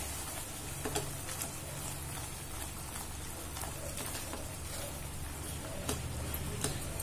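Thick almond halwa sizzling and bubbling in ghee in a non-stick pan as it is stirred with a silicone spatula, with a few light taps and scrapes of the spatula against the pan.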